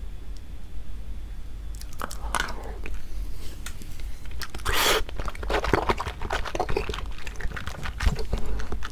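Biting and chewing into raw marinated crab (gejang): crackling, crunching clicks of shell starting about two seconds in, with one louder crunch about halfway through.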